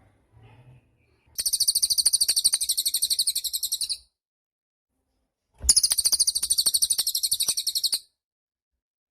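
Cililin bird singing two high, rapid, buzzy trills of about two and a half seconds each, separated by a pause of about a second and a half.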